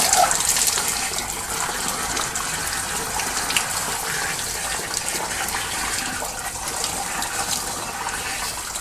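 Water from a hose spraying steadily through the sections of a steam boiler during a wash-out, flushing out oil and black sludge.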